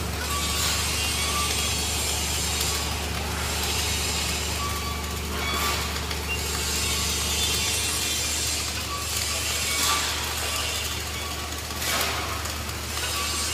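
Steady low machinery hum, with hissing noise that swells every few seconds and faint short high beeps.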